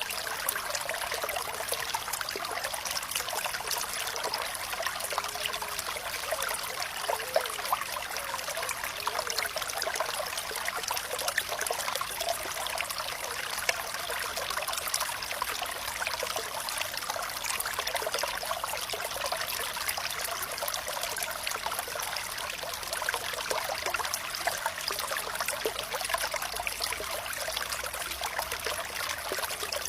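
Water flowing and trickling steadily, with small bubbling gurgles.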